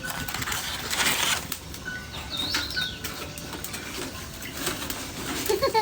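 Small birds chirping, with one short call rising and falling about two and a half seconds in, over scattered clicks and a brief rush of noise about a second in.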